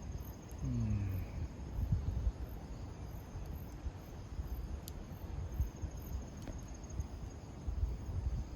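Insects chirping at night, a thin high chirp repeated evenly a few times a second over a steady high trill, with a low rumble beneath and a couple of faint clicks.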